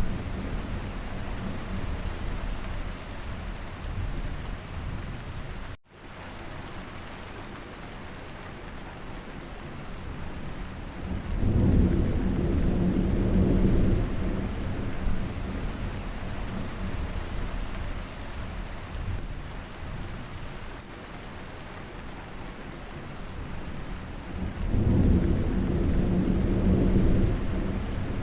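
Steady rain falling through a thunderstorm, with long rolls of deep thunder swelling up at the start, again about eleven seconds in and near the end. The sound drops out for an instant about six seconds in.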